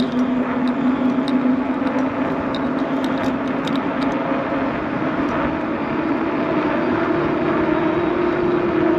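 Steady rushing and rolling noise of a bicycle being ridden, with a droning tone that rises a little in pitch about seven seconds in and a few light clicks near the middle.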